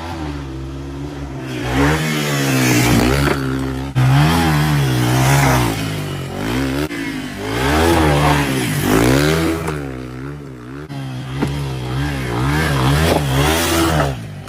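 Yamaha TW200's single-cylinder four-stroke engine being ridden hard, its pitch climbing and dropping again and again as the throttle is opened and eased off.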